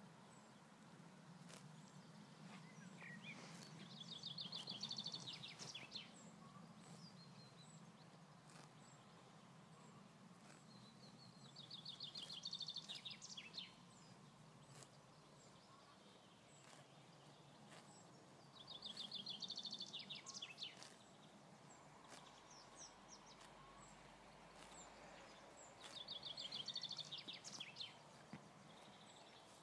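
A small songbird sings a short trilled phrase of about two seconds four times, roughly every seven seconds, over a faint steady low background hum.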